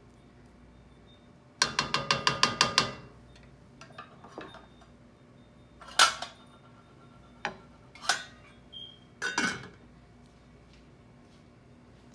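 A metal spoon clinking against a pot and dish while cooked rice is served. First comes a quick run of about nine ringing taps, as if the spoon is knocked against the rim, then a few single clinks.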